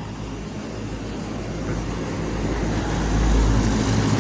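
Lennox air conditioner outdoor units running: a steady low hum of fan motors and compressors with a noise of moving air, growing louder about two seconds in.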